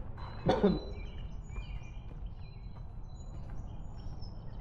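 Small birds chirping and whistling in short repeated calls over a steady low outdoor rumble, with one short burst of a person's voice about half a second in.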